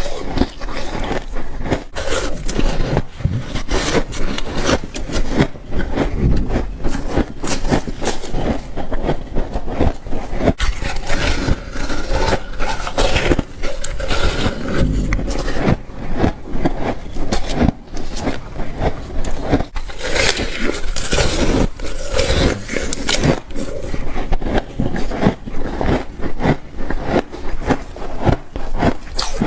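Freezer frost crunching and crackling as it is bitten and chewed, a dense run of small cracks throughout, played back in slow motion.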